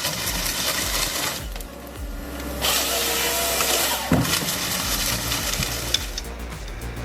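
Timber harvester working, with stretches of machine and sawing noise as its head cuts and feeds tree trunks, broken by a brief lull and some sharp clicks near the end.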